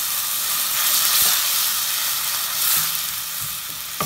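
Onion, ginger-garlic and spice masala with tomato sizzling in hot oil in a nonstick pan while it is stirred with a wooden spatula, with a couple of knocks of the spatula against the pan, about a second in and near the end.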